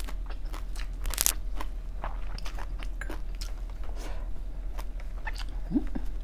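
Close-miked eating sounds: a person biting and chewing seafood, with many small wet clicks and crunches. A brief rising hum from the eater comes near the end.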